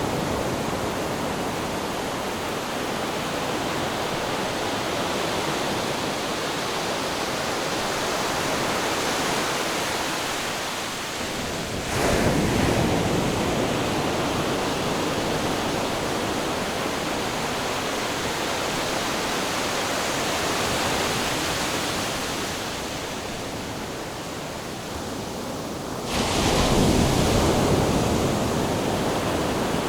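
Ocean surf washing continuously, with two louder surges that set in suddenly, about twelve seconds in and again near the end.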